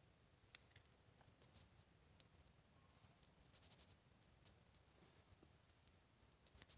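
Near silence with faint scattered clicks: a quick run of them in the middle and a sharper click near the end.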